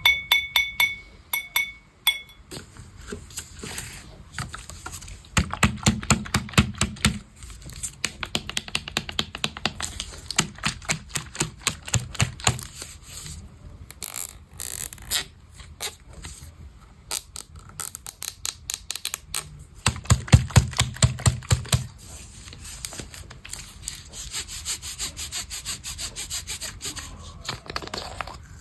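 Rapid tapping and scratching: long runs of sharp clicks, several a second, with two stretches of deeper thudding taps. A few ringing, glassy taps sound in the first two seconds.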